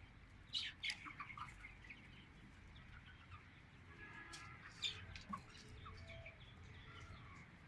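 Chickens and chicks clucking and peeping softly, with a few short louder calls.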